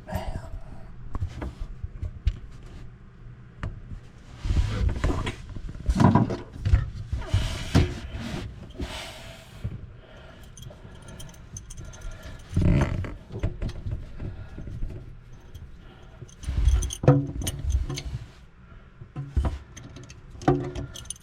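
Irregular metallic clinks and knocks of a wrench and metal fittings being handled while loosening the nut on a faucet's water-line connection, with a few louder clusters of knocks.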